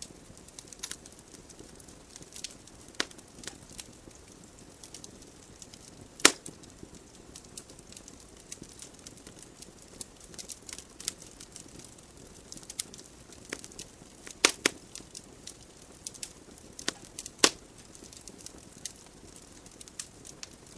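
Wood logs burning in a fireplace: irregular crackles and sharp pops over a soft hiss of flame, with the loudest pops about six seconds in, and twice more near fourteen and seventeen seconds.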